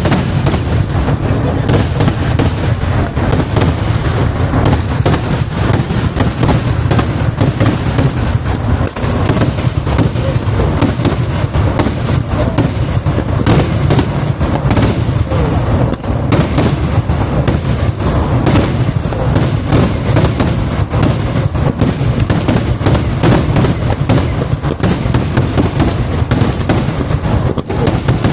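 Kerala temple fireworks (vedikkettu): a dense, unbroken barrage of explosions, several blasts a second overlapping into a continuous heavy rumble.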